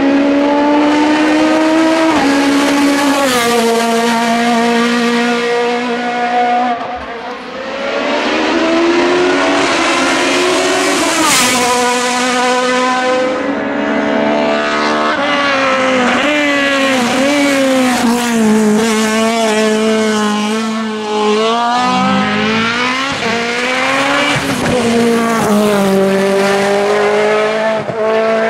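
Race car engines at full throttle on a hillclimb course. The pitch climbs hard through each gear and drops sharply at every shift or lift, over and over.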